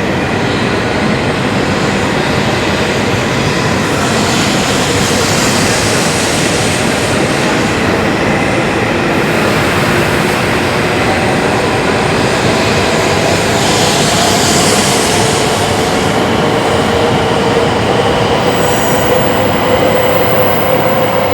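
Shinkansen high-speed train moving alongside the platform, a loud steady rush of wheels and air with a whining tone that rises gently in pitch over the second half.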